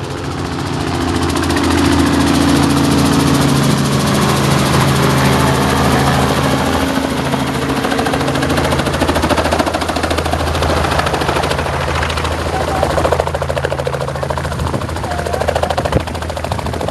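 Tour helicopter arriving close by: a fast, steady rotor chop over the hum of its engine, growing louder over the first couple of seconds.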